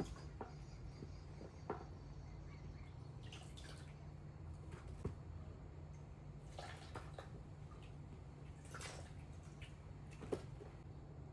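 Faint, scattered drips and small splashes of water, with a few sharp ticks, over a low steady hum.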